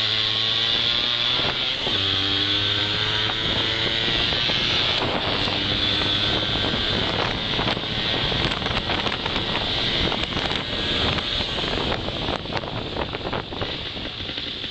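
Honda MBX 80's two-stroke single-cylinder engine pulling under way, its note rising, breaking for a gear change about two seconds in and rising again. In the second half the engine note is lost under wind on the microphone and road noise, getting quieter near the end.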